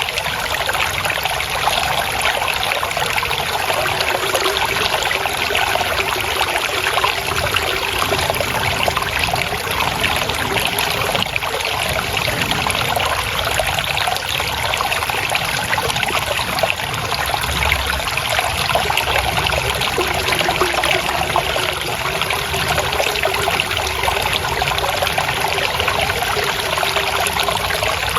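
Shallow water flowing and trickling steadily, a constant babbling splash.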